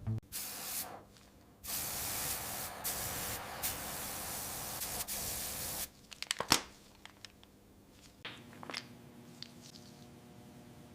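Spray paint hissing out in two bursts, a short one and then one about four seconds long, followed by a quick run of sharp clicks and taps.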